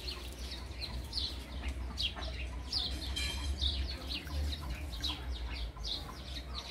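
Many birds chirping, a quick, steady stream of short, high calls, with one longer, harsher call about three seconds in. A steady low rumble runs underneath.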